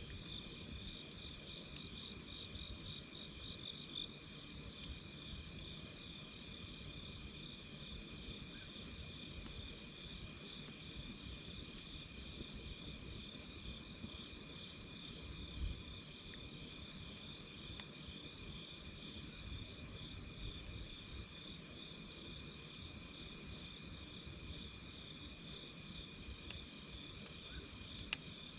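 Crickets or other insects trilling steadily over the low crackle of a campfire, with a soft pop about halfway through and a sharp crack near the end.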